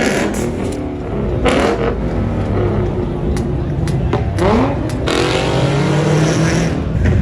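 Car engines revving and accelerating as cars pull away, with a rising rev about halfway through and a few sharp cracks.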